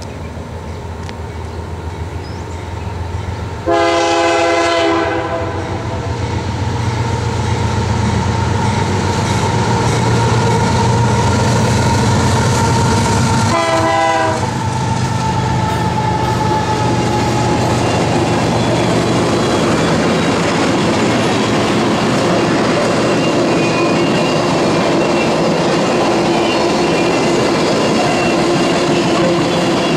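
Canadian Pacific GE diesel freight locomotives run past with a steady low engine rumble and sound a multi-chime Nathan K-series air horn twice: a blast of about a second and a half some four seconds in, and a shorter one near the middle. After that a long string of empty oil tank cars rolls by with steady wheel clatter on the rails.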